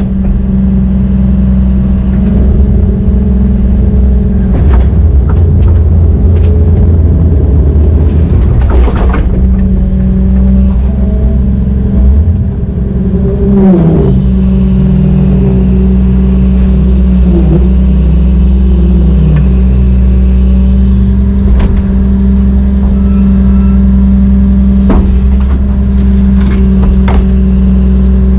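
Brøyt X21 excavator's diesel engine running steadily under load, its pitch dipping and rising again about halfway through as the revs change. A few short metallic clanks are heard along the way.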